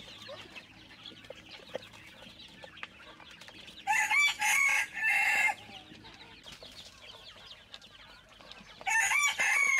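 Rooster crowing twice, about five seconds apart, each crow about a second and a half long, with chickens clucking softly in between.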